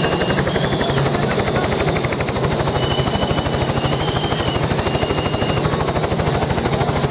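Helicopter running close by, its rotor giving a fast, even chopping beat.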